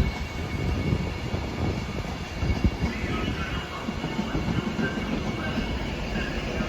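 A train running through the station with a steady low rumble, with faint brief higher-pitched tones over it partway through.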